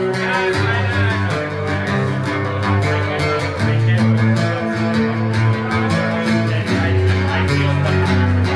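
Instrumental passage of a song: guitars over bass with a steady beat, no singing.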